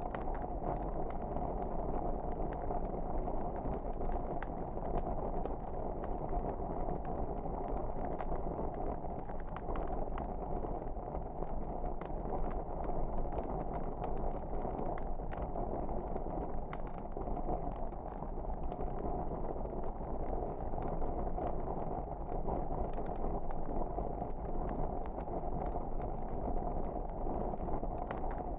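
Wood fire burning in a fireplace: a steady low rush with frequent small crackles and pops scattered throughout.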